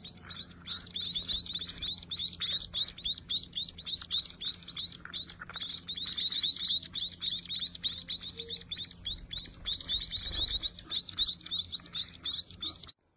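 Several young munias giving rapid, overlapping high begging chirps while being hand-fed. The chirping stops abruptly near the end.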